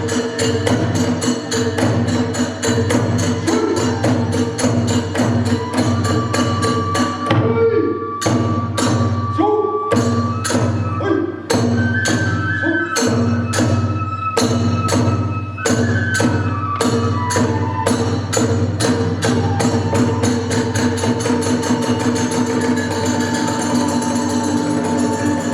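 Kagura hayashi ensemble playing: drums beat a fast, steady rhythm with clashing hand cymbals, and a bamboo transverse flute plays a held melody over it in the middle.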